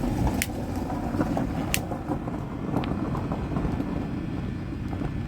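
Two sharp clicks about a second apart as fatwood kindling is lit, over a steady low rumble.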